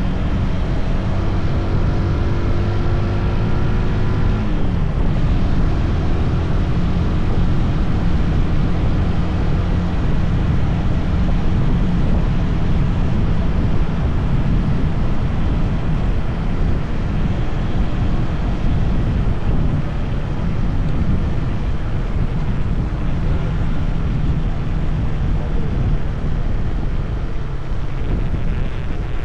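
SYM NH 180 motorcycle engine running under way, with wind rushing over the microphone. A clear, steady engine note shows for the first few seconds, then the wind noise mostly covers it.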